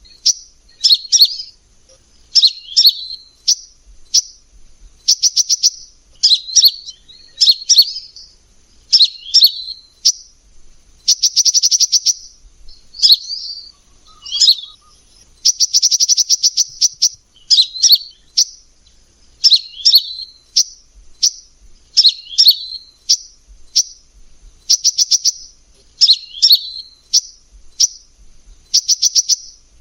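Kolibri ninja sunbird singing: a short, high chirped phrase repeated about once a second, twice giving way to a longer rapid trill.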